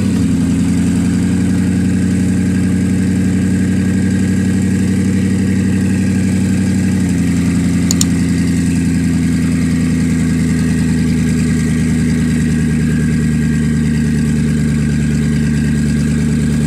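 Koenigsegg Regera's twin-turbo V8 idling steadily, the idle dropping slightly about seven seconds in.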